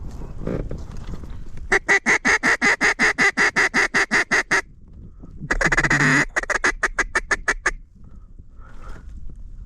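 Mallard duck call blown by hand: a fast, loud run of about twenty evenly spaced quacks, then after a short break a long drawn quack running straight into a string of shorter ones that trails off. It is calling to an incoming duck.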